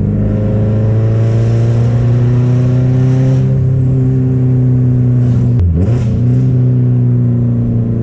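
Subaru WRX STI's EJ flat-four, fitted with a big turbo and a Tomei cat-back exhaust, pulling under throttle with a loud, raspy exhaust note. The note dips briefly and picks up again about five and a half seconds in.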